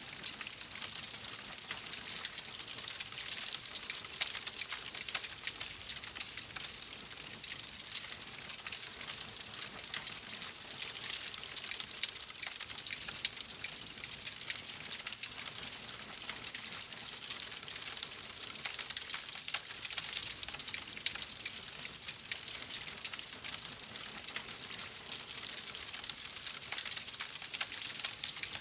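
Wood fire crackling in a fireplace: a dense stream of small irregular pops and snaps over a steady hiss.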